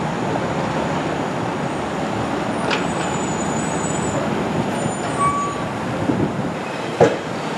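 LIRR M9 electric multiple-unit train standing at the platform, its onboard equipment running with a steady hum, and one short, sharp release of air about seven seconds in.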